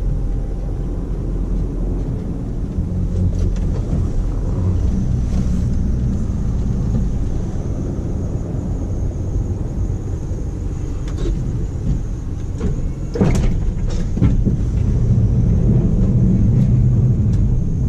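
1991 Dodge W350 pickup's 360 V8 running steadily while plowing snow, a low rumble throughout. A sharp knock or clatter about three-quarters of the way through, with a few lighter clicks after it.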